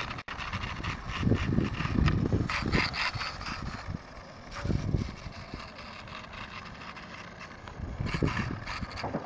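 Toy remote-control Ducati motorcycle driving in spurts, its small motor and plastic gears giving a clicky rattle that swells in bursts, loudest a second or two in, again about five seconds in and near the end.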